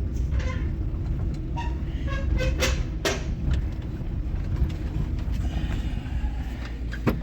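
Interior road rumble of a 1998 Suzuki Baleno on the move, with scattered knocks and brief faint squeaks. This is the rattling and creaking of a loose bonnet hinge that moves as the car goes over bumps.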